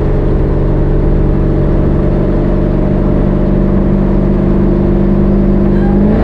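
Chevy C10 truck's engine running at a steady, even note, its pitch rising briefly near the end.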